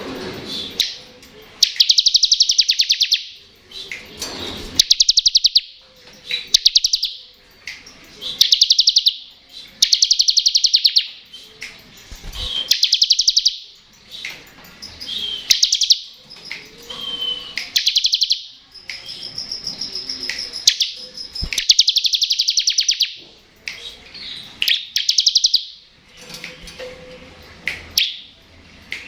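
Bar-winged prinia (ciblek) singing its 'ngebren' song: repeated high, very fast trills, each about a second long, coming every two seconds or so.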